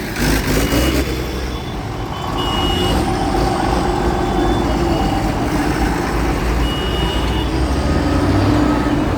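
Heavy vehicle engines running with a steady low rumble, with short high-pitched beeps sounding on and off at uneven intervals.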